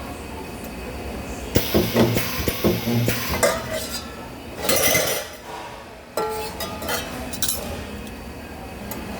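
Metal parts clinking and clanking as they are handled at a spot welding station, in scattered sharp knocks, with a short burst of hiss about five seconds in.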